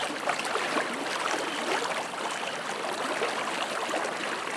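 Fast river water rushing and splashing: a steady hiss full of small burbles and splashes.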